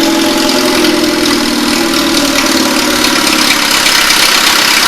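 Ford Festiva 1.3-litre four-cylinder engine running steadily and smoothly, purring like a kitten.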